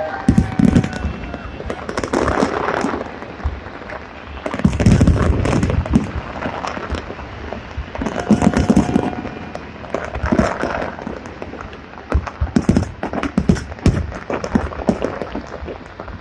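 Fireworks going off: repeated booming bursts and fast runs of crackling bangs, with brief whistling tones here and there.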